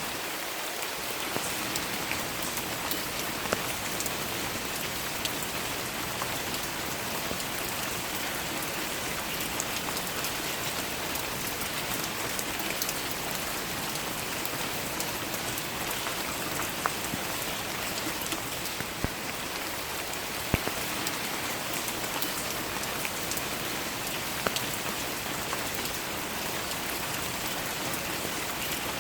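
Steady rain falling, an even hiss of rainfall with scattered sharper drop taps.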